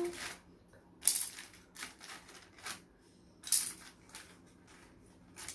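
Wooden craft sticks being handled and set down on a table: a series of short, sharp clicks and clatters, the loudest about a second in and again about three and a half seconds in.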